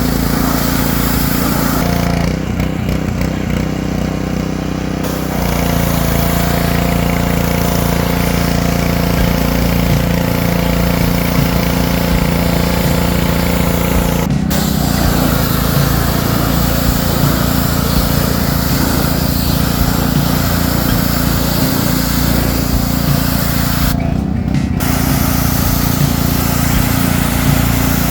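An engine running steadily and loudly, its pitch shifting abruptly a few times.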